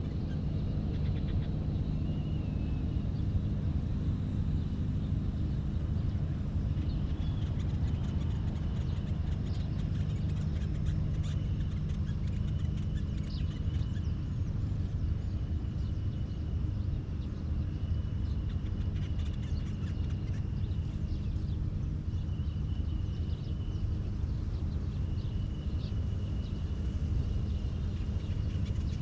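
A steady low rumble outdoors, over which a bird repeats a thin, high, drawn-out call of about a second, roughly every two seconds, with faint scattered clicks.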